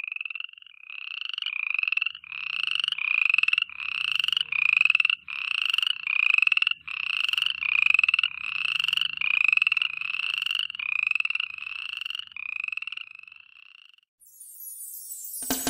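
Repeated croaking calls, about three every two seconds, each a short buzzy trill rising slightly in pitch. The calls stop about 14 s in and music begins.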